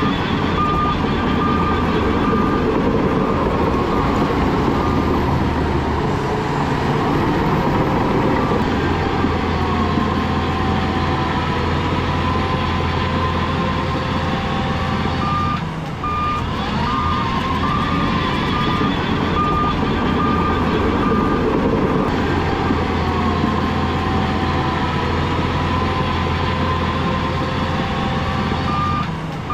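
Heavy diesel earthmoving machinery running under load: a steady low engine drone with a whine that slowly rises and falls. A reversing alarm beeps about once a second in runs near the start, again about halfway through, and near the end.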